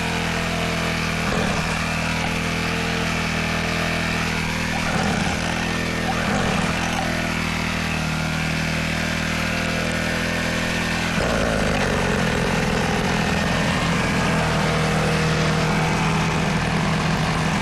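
Dirt bike engine idling steadily; about eleven seconds in it gets a little louder and rougher.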